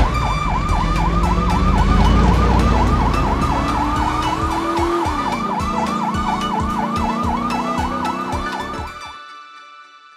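Electronic toy-vehicle siren wailing in fast repeated swoops, about three or four a second, over a low motor-like hum that rises steadily and then drops about five seconds in. It stops about nine seconds in.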